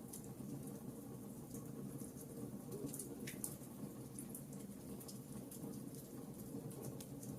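Wood fire burning in a fireplace: a steady low rumble of flame with scattered small crackles and pops from the burning logs.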